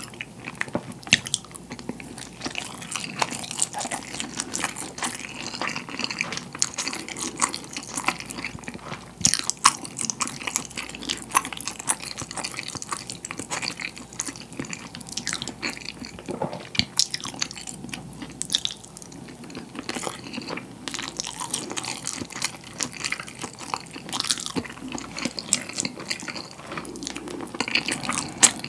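Close-miked chewing of white rice with salted pollock roe (myeongnan-jeot): wet mouth sounds made of many small, sharp clicks and smacks, going on without a break.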